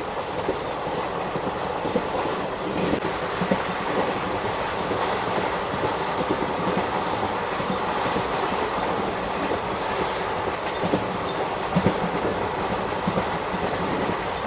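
Indian Railways passenger coaches running along the track, heard from an open coach doorway: a steady running noise of wheels and coach, with a few sharper knocks, the most prominent about twelve seconds in.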